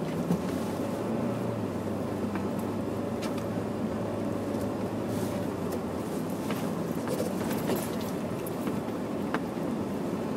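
Honda Prelude's four-cylinder engine running steadily under way, with the rush of studded snow tyres rolling through snow. Scattered sharp ticks sit over the steady hum.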